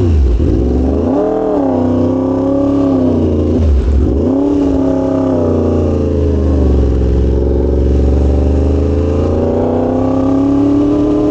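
Yamaha R1M's crossplane inline-four engine running under way. Its pitch drops as the throttle is rolled off near the start and again about four seconds in, rises again each time, then holds fairly steady and climbs slowly near the end.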